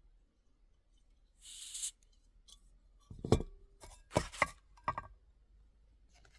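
A short hiss, then a cluster of about five sharp knocks and clinks, some briefly ringing, as camp cookware and utensils are handled.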